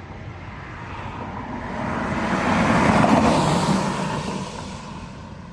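A car's tyre and wind rush with no engine note swells over about two seconds, peaks in the middle, then fades away.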